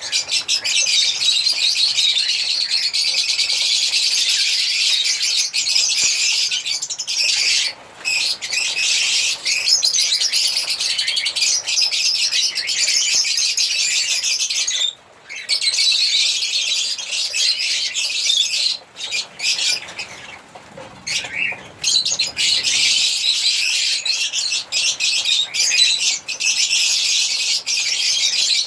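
Lovebirds chirping and twittering in a dense, shrill, unbroken chatter. There are brief breaks about 8 and 15 seconds in, and a quieter spell a little after 20 seconds.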